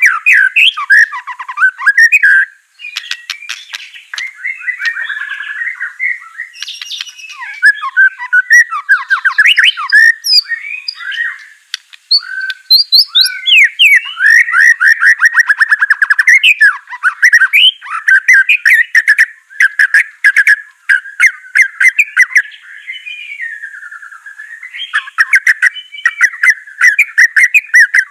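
White-rumped shama (murai batu) singing a loud, varied song almost without a break: fast trills, sweeping whistles and sharp, harsh notes.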